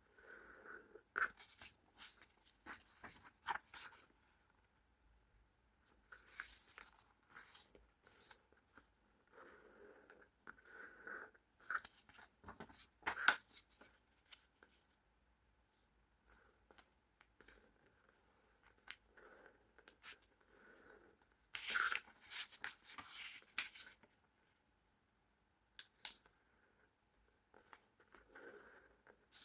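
A sheet of paper being folded and creased by hand: scattered rustles and crinkles with short sharp scrapes as the folds are pressed down, and a longer run of crinkling about two-thirds of the way through.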